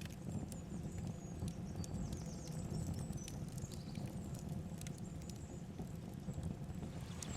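Steady river water running, with scattered sharp clicks and brief high chirps over it.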